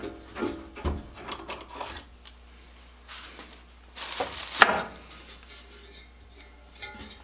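Clinks, knocks and rubbing from metal parts being handled, as the blower fan is worked on; a louder scrape ending in a sharp knock about four to five seconds in is the loudest sound.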